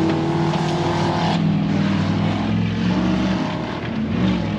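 Off-road race trucks' engines running hard. A higher-pitched engine note breaks off about a second and a half in, and a lower engine keeps running.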